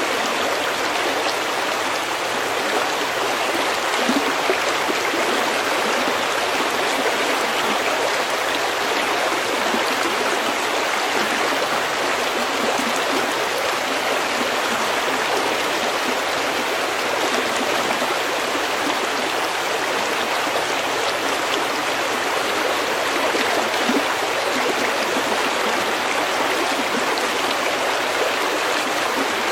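Brook water running steadily over stones, an even unbroken rush of moving water.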